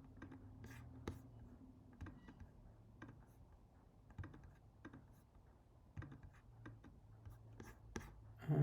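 Faint, irregular clicks and taps of a computer keyboard in use, with a few keys struck in quick clusters and pauses between them.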